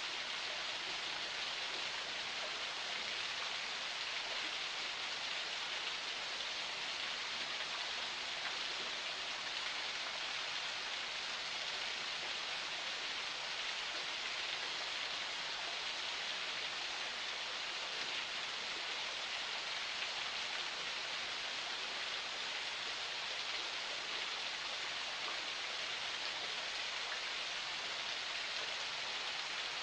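Water of a forest spring flowing steadily, an even splashing hiss with no changes.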